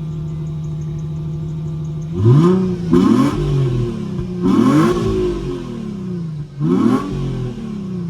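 Infiniti G35's 3.5-litre V6 (VQ35HR) idling steadily through its exhaust, then blipped four times, each rev rising sharply and falling back to idle.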